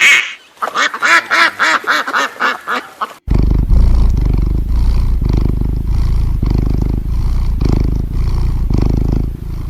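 Animal calls: first a quick run of about eight short, pitched, quack-like calls, then a sudden cut to a long, loud, deep rumbling growl that pulses every fraction of a second.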